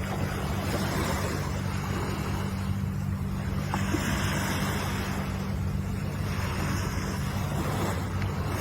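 Ocean waves breaking and washing on the shore, swelling and easing about three times, over a steady low hum.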